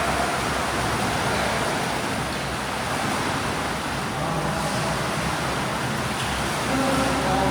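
Steady wash of swimming-pool noise: water splashing and churning from swimmers doing breaststroke drills, with faint voices near the end.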